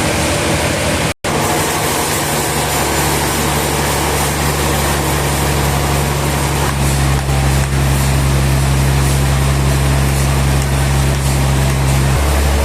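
Sawmill machinery running steadily, a loud low hum under a wide mechanical noise. The sound cuts out completely for an instant about a second in, and the hum shifts lower near the end.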